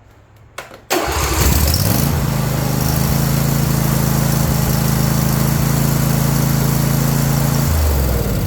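John Deere S130 riding mower's V-twin engine starting at once on a new battery: a click, then it catches about a second in, climbs in speed and runs steadily, dropping to a lower speed near the end.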